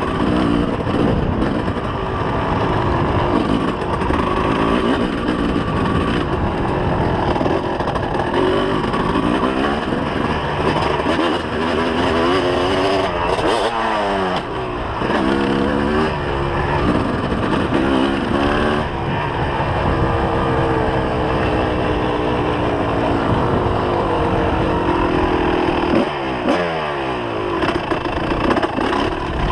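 2004 Kawasaki KX250 two-stroke motocross engine revving up and down as the bike is ridden, with sharp throttle-offs and quick pitch drops several times, about halfway through and near the end.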